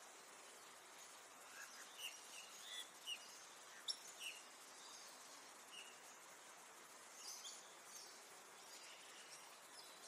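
Faint, scattered bird chirps over a quiet steady hiss. There is a cluster of short, high chirps in the first half, the sharpest just before the middle, and a few more later on.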